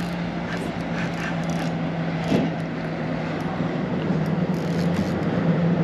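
Electric trolling motor humming steadily with one low even tone that shifts slightly about halfway through, over a wash of background noise; a single light knock a little over two seconds in.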